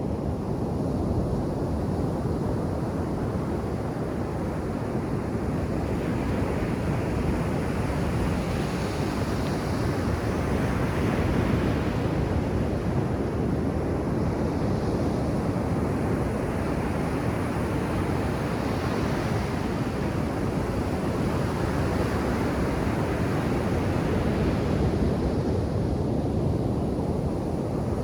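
Ocean surf washing onto a beach: a continuous rush of breaking waves, with a wave brightening the sound every few seconds.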